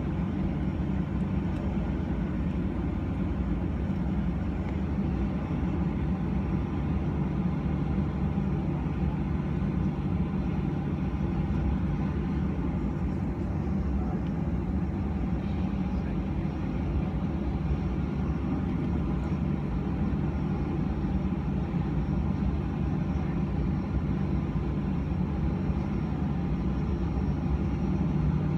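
Steady low rumble and hum inside the front cabin of a Boeing 737-900, its engines and cabin air running evenly with no spool-up.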